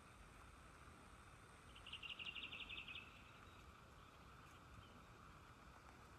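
A songbird's short trill: a rapid run of about a dozen high notes over roughly a second, against near-silent outdoor background.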